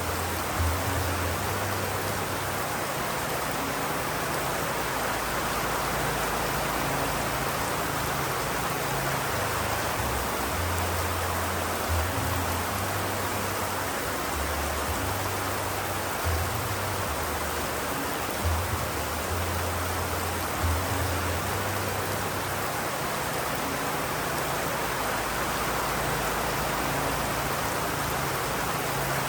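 Steady, heavy rain falling, an even hiss of rainfall, with a low rumble that comes and goes underneath and a few faint bumps.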